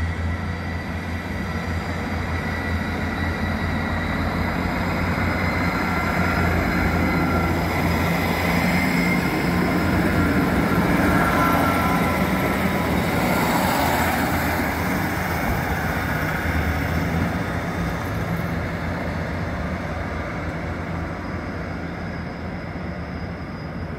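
Class 158 diesel multiple unit 158951 running past: diesel engine note with wheel and rail noise, growing louder to a peak about halfway through as the carriages pass, then fading as it moves away.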